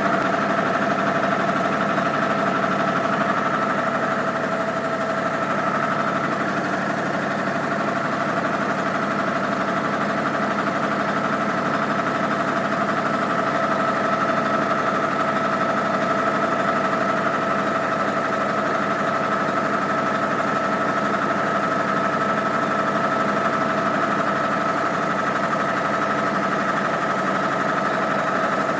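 Six-cylinder Chevy spark-ignition engine, stripped of its auxiliary equipment, running steadily while warming up, with a steady whine riding on its sound.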